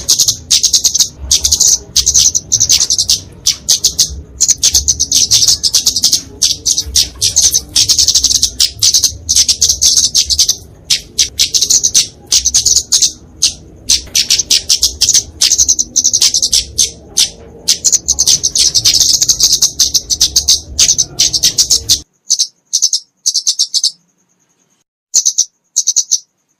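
Flowerpecker (kemade, Dicaeum) giving its fighting call: a fast, continuous stream of sharp, high-pitched chirps. Near the end the background cuts out abruptly and the chirps come in short, broken bursts with silent gaps between them.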